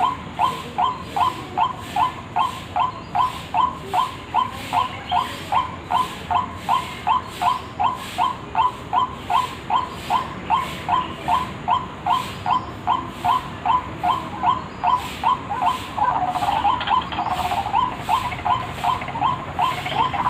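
White-breasted waterhen (ruak-ruak) call played as a bird lure: a short call repeated evenly about two and a half times a second. In the last few seconds a second, denser run of calls overlaps it.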